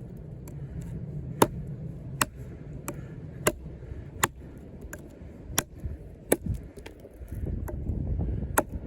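The thick 6 mm Sleipner-steel blade of a heavy combat knife is chopping into a hard, frozen log. There are about eleven sharp strikes, roughly one every three quarters of a second.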